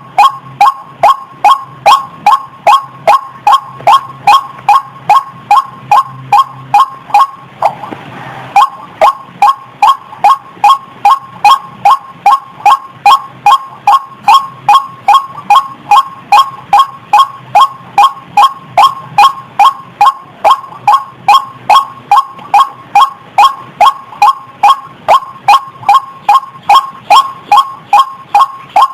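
White-breasted waterhen (ruak-ruak) calling over and over in a fast, even series of loud, clipped notes, about two and a half a second, with one brief break about eight seconds in.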